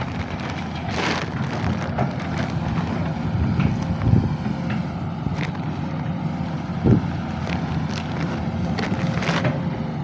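Sany SY215C hydraulic excavator's diesel engine running steadily under work, with occasional short knocks; the loudest knocks come about four and seven seconds in.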